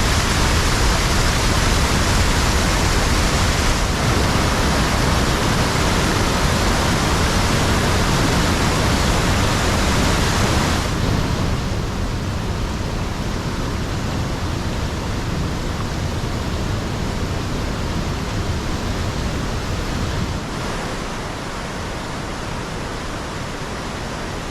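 Waterfall rushing steadily, a dense continuous roar of falling water. It drops to a quieter level about halfway through and again near the end.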